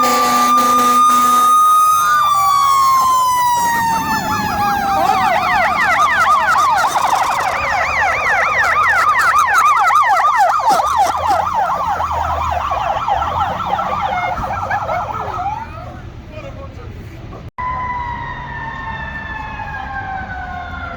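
Fire apparatus sirens. A wail falls slowly in pitch, then a rapid yelp runs from about five to fifteen seconds in. After a brief break, another wail slowly winds down near the end.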